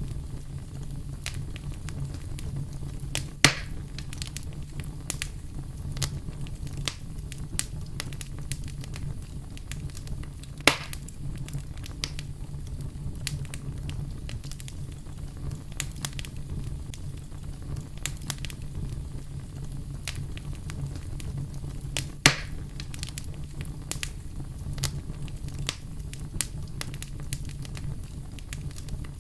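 Wood fire crackling over a steady low rumble of the flames, with frequent small snaps and three louder pops.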